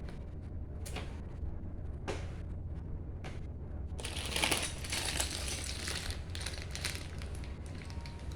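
Rummaging through loose plastic Lego pieces: a few scattered clicks and small rattles, then a denser stretch of rustling and clattering about four seconds in that lasts a couple of seconds.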